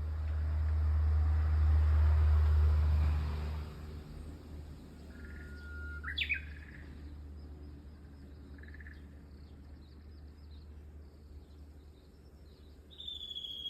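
Japanese bush warbler singing: about five seconds in, a held whistle that breaks into a quick rising-and-falling flourish, the familiar hoo-hokekyo. A short whistled note follows a few seconds later, and a long falling whistle comes near the end. A loud low rumble with hiss fills the first few seconds.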